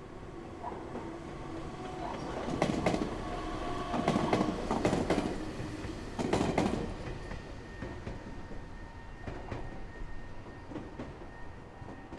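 Meitetsu Nagoya Main Line train passing, its wheels clattering over the rail joints in quick clusters, loudest from about two to seven seconds in, over a steady whine. The sound then fades as the train moves away.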